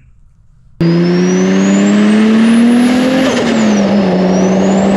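Car engine sound that cuts in suddenly about a second in. The engine note climbs steadily as it accelerates, drops back a little past halfway and then holds. A high whine rises and falls above it.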